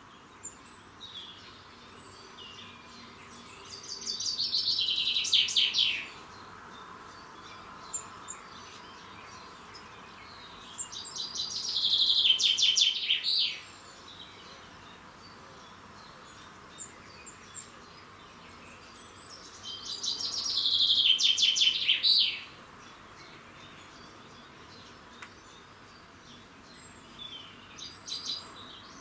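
A songbird singing the same song three times, about eight seconds apart. Each song is a fast run of notes that falls in pitch over about two seconds. Faint short chirps from other birds come in between.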